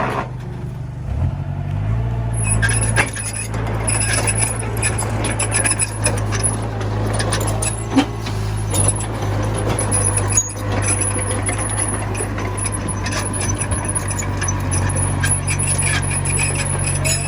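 Komatsu mini bulldozer's diesel engine running under load, its note rising about a second in, with metal clanks and rattles from the machine working throughout.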